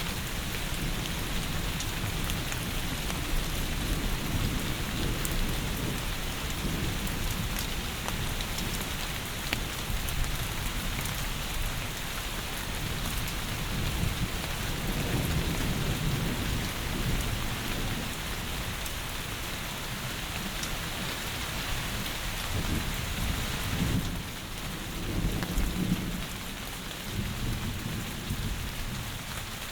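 Steady heavy rain hiss with low rumbles of thunder swelling in the second half. About 24 s in the rain's high hiss thins out.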